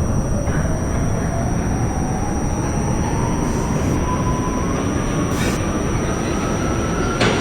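R68A subway car running between stations: steady rumble of wheels on the track with a whine that rises slowly in pitch as the train gathers speed, and a sharp click near the end.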